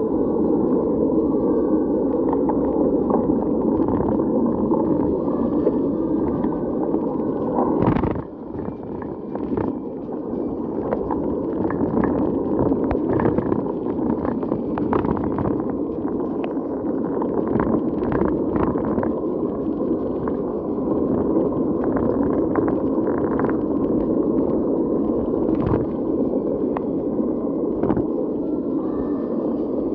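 Muffled rushing noise of wind and rain on a camera riding a bicycle, with scattered sharp taps. The noise dips briefly about eight seconds in.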